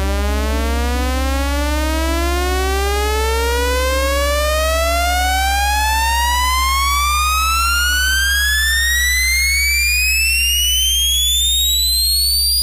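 Sine-wave test tone sweeping steadily upward in pitch from low to high, over a constant deep bass tone: a frequency sweep played as a speaker and subwoofer sound check.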